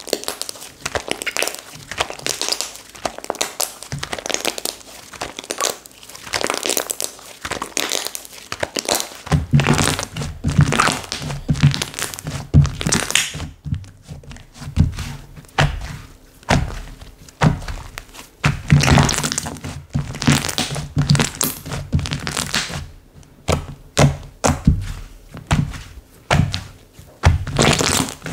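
Slime being squished, pressed and stretched by hand, with dense irregular crackling and popping. Heavier low thuds join in about a third of the way in.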